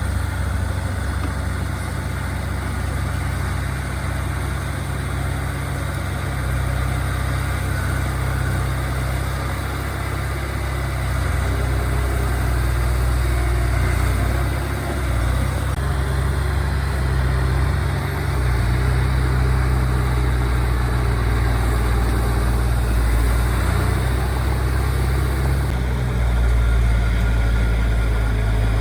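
Heavy diesel engine of earthmoving machinery running steadily, its sound strongest in the low end, getting a little louder about two-thirds of the way in.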